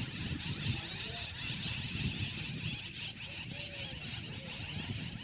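Outdoor background: a steady high-pitched hiss-like drone with an uneven low rumble beneath it and a few faint short chirps.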